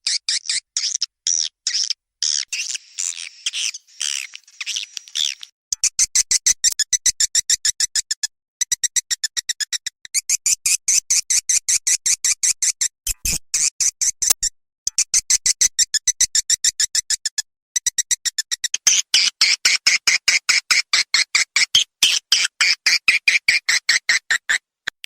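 Swiftlet calling sound: rapid trains of high, clicking chirps, many a second, broken by short pauses every few seconds and growing denser toward the end. It is a 'birahi' (breeding-mood) lure call, played through amplifiers in swiftlet houses to call in the birds.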